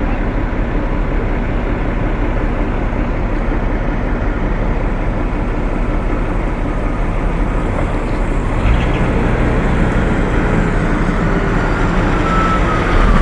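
A heavy vehicle's engine running steadily with a low rumble. Its note shifts about two-thirds of the way through, and a faint falling whine begins near the end.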